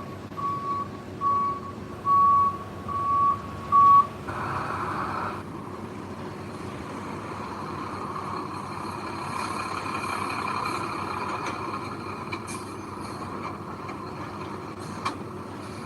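A construction vehicle's reversing alarm beeps about every half second to second for the first four seconds over a running engine. A short hiss follows, and then the engine runs on steadily with a few faint clicks.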